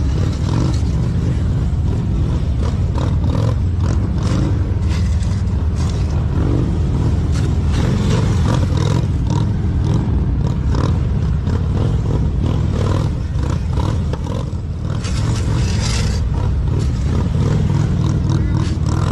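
Motorcycle engine running, loud and steady, with many short scraping or rattling noises over it.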